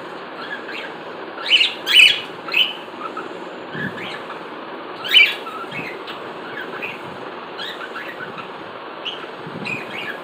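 Cockatiels chirping and calling: a run of short, sharp calls, the loudest clustered about one and a half to two and a half seconds in and again about five seconds in, with softer chirps in between over a steady background hiss.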